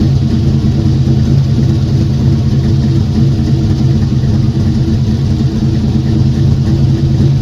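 Car engine running steadily at a constant pitch, with no revving.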